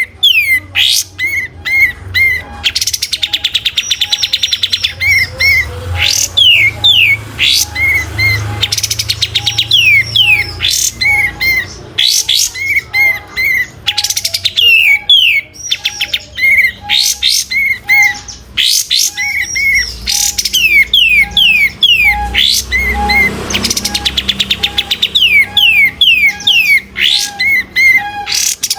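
A kapas tembak bulbul singing continuously and loudly. Its song is rapid runs of short falling whistles and quick chirps, repeated over and over with brief pauses between runs.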